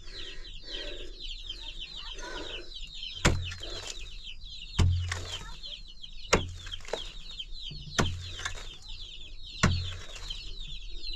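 Chicks peeping constantly in a dense, high chorus, with about five heavy thuds at a regular pace of roughly one every second and a half.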